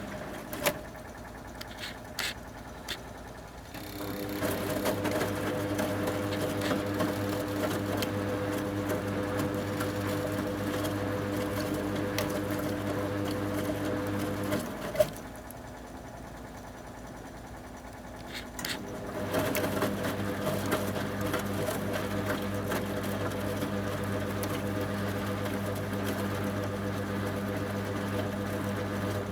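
A 1974 Zoppas Superautomatic 242 washing machine's motor turning the drum in the wash cycle. After a few clicks it starts about four seconds in and runs with a steady hum for about ten seconds, stops with a click, then starts again a few seconds later and keeps running.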